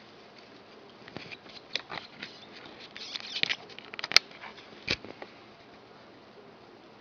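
Hedgehog and newborn hoglets shifting about in dry wood-shaving bedding: a scatter of light crackles and clicks over a steady hiss, busiest in the middle, with one sharp click just after the middle.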